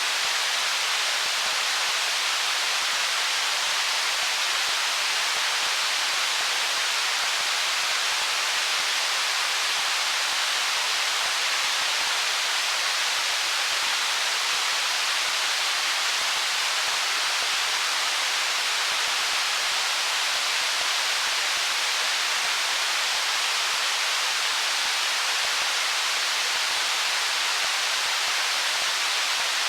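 Stream water running over stones: a steady, even rush, bright and hissy, with almost no low rumble and no change.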